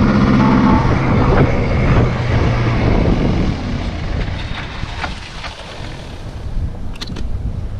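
Motorcycle engine running steadily, then dying away about three seconds in, leaving wind noise on the microphone and a couple of faint clicks near the end.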